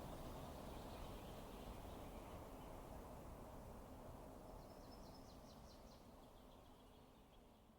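Faint outdoor ambience: a steady low rumble and hiss that slowly fades away toward the end, with a faint rapid bird trill about five seconds in.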